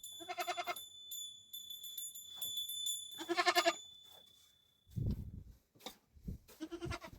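A goat bleating three times, each call short and quavering. There is a low thump about five seconds in.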